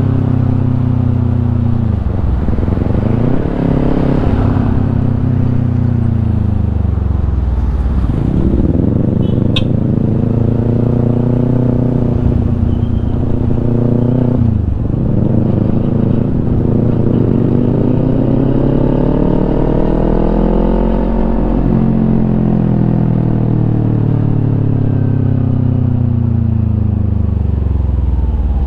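Kawasaki Ninja 250 parallel-twin engine through a Yoshimura aftermarket exhaust, under way. The engine note drops sharply three times as it shifts up and climbs again after each, then rises slowly and falls away as the bike slows near the end.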